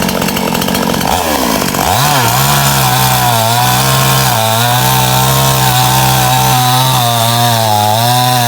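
Small Stihl chainsaw running: the engine dips and revs back up about two seconds in, then holds at high revs with a slight wavering pitch as it cuts into wood.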